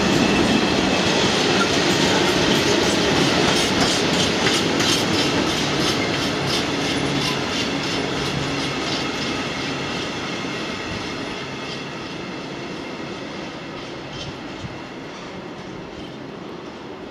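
A long freight train of hooded steel wagons rolling past, the wheels clattering over the rail joints in a run of regular clicks. The sound fades steadily as the tail of the train draws away.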